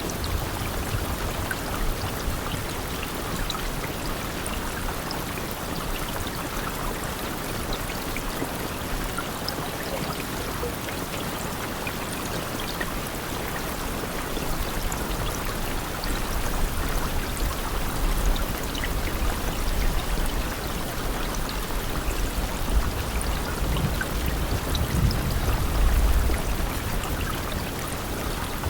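Steady rain, a dense even hiss with scattered small drop ticks. A low rumble swells in the second half, strongest near the end.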